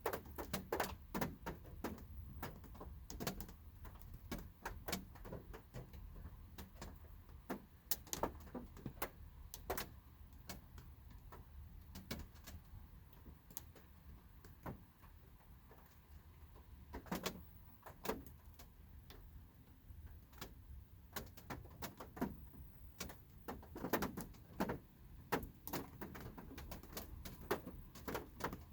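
Light rain heard from inside a parked car: scattered raindrops tap irregularly on the car's body and glass, thinning out in the middle and coming thicker again toward the end, over a low steady rumble.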